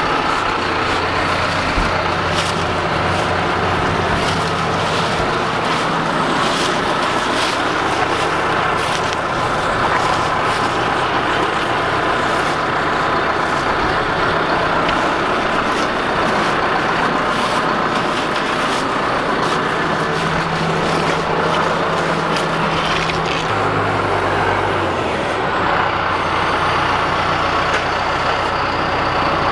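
Tractor engine running steadily, its engine note changing about three-quarters of the way through.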